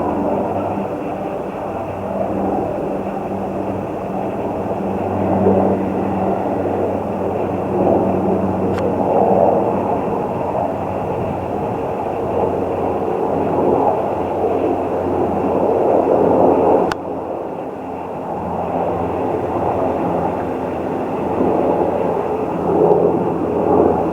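A long train running past on the rails: a loud, steady rumble of wheels with a low hum under it. The sound dips and dulls suddenly about seventeen seconds in.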